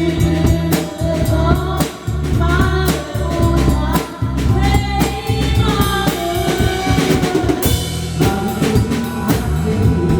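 Drum kit played live to a pop song with singing: a steady beat of bass drum, snare and rimshots under bass and a sung melody, with a cymbal crash about eight seconds in.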